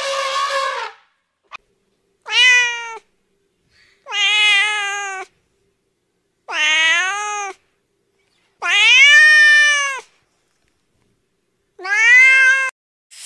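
Cat meowing: one call ends about a second in, then five separate meows follow at intervals of about two seconds, each rising and then falling in pitch.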